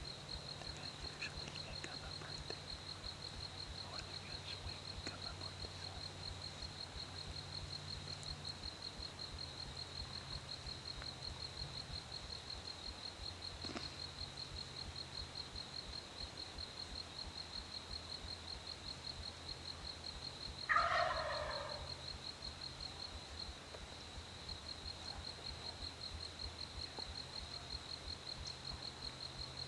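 A wild turkey gobbles once, loud and about a second long, about two-thirds of the way through. Under it runs a steady high-pitched insect trill.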